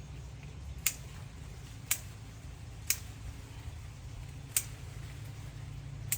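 Five sharp snips, roughly a second apart, from hand pruning shears clipping twigs, over a steady low hum.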